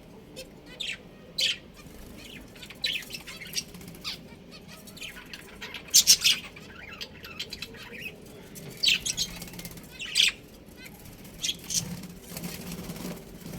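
Budgerigars chirping in short, sharp, scattered calls, loudest in a quick cluster about six seconds in.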